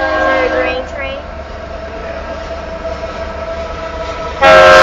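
Union Pacific locomotive air horn starting a loud blast near the end, several steady tones sounding together as a chord, over the low rumble of the approaching train.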